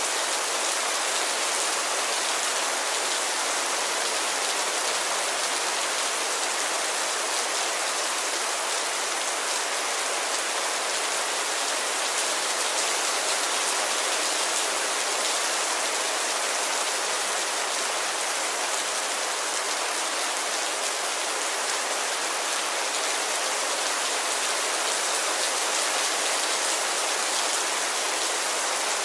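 Steady, even rain falling, a dense hiss of drops without distinct separate hits or thunder.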